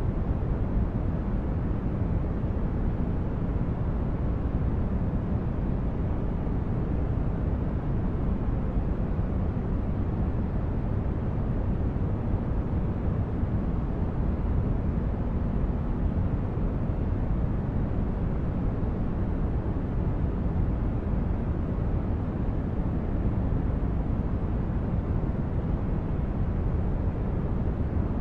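Continuous sleep-aid noise: a steady, even hiss weighted toward the low end, so it comes across as a deep rushing rumble. It has no tones, no rhythm and no change in level.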